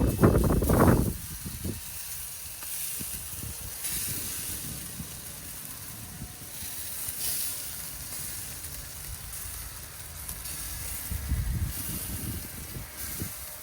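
Sausages and lula kebab sizzling over hot charcoal on a grill, a steady hiss that swells and fades. Low rumbling thumps, the loudest sound here, come in the first second and again near the end.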